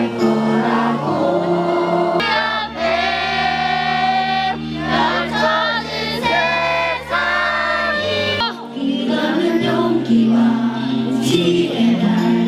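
Music with a choir singing over a sustained accompaniment.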